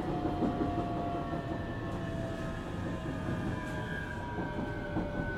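Inside a JR Kyushu 817 series electric train under way: the traction motors give a whine of several tones at once, all falling slowly in pitch as the train slows, over a steady rumble of wheels on track. This unit is an unusual-sounding one whose motor sound resembles a Keio 7000 series.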